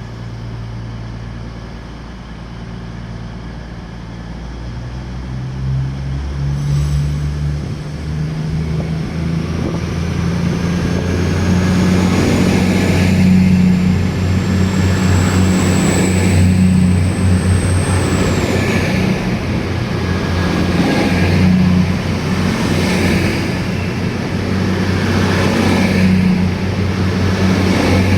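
Two coupled Class 222 Meridian diesel-electric multiple units, ten cars with Cummins 19-litre six-cylinder engines, pulling away as the engines throttle up. The low engine note climbs a few seconds in and then runs loud and steady, swelling every couple of seconds as the cars pass. A thin high whine rises and falls away about two-thirds of the way through.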